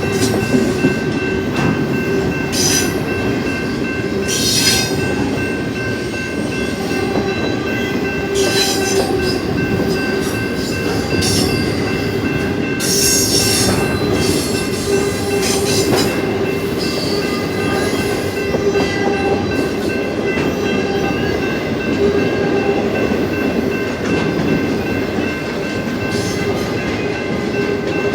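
Union Pacific intermodal freight train's container cars rolling past at speed: a steady loud rumble of steel wheels on rail with a few steady high ringing tones, and brief high-pitched wheel screeches now and then.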